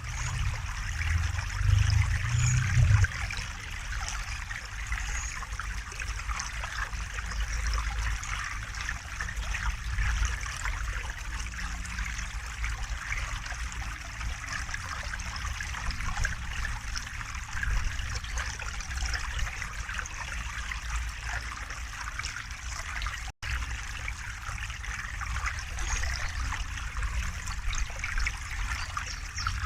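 River water flowing and trickling steadily, with a low rumble underneath that swells for a couple of seconds near the start. The sound cuts out for an instant about three-quarters of the way through.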